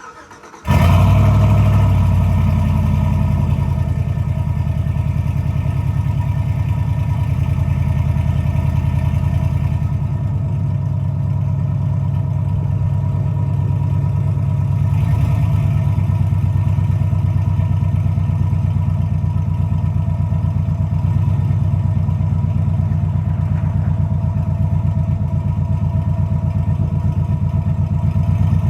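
2006 Chevrolet Silverado 4.8 L V8 running through catless long-tube headers and a Black Widow Angry Housewife muffler on 3-inch pipe, started about half a second in and then idling steadily with a deep exhaust rumble.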